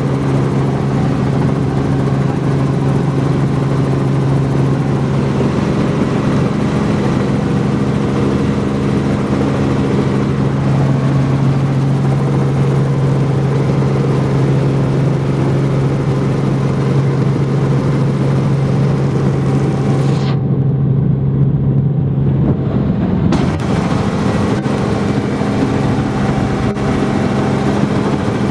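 Helicopter in flight heard from inside the cabin: a loud, steady drone of engine and rotor with a constant hum. For about three seconds near the end the sound turns briefly muffled before returning.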